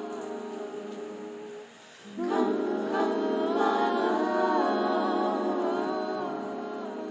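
Layered wordless vocal music: sustained humming and singing voices stacked in harmony. It thins out and dips briefly a little before two seconds in, then the full layered voices come back in.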